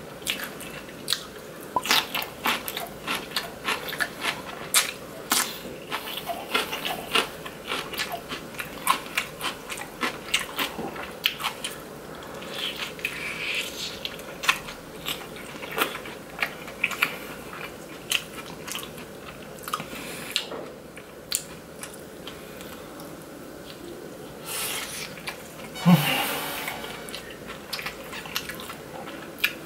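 Close-miked chewing and crunching of crispy Chicago-style deep-dish pizza crust, a dense run of sharp crunches with a quieter stretch in the middle. Near the end a short, louder sound with a low hum stands out.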